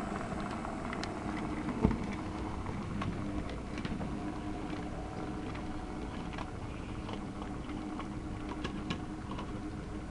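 OO gauge model diesel train running along the track: a steady low hum with light clicking of wheels over the rail joints. One sharp knock about two seconds in.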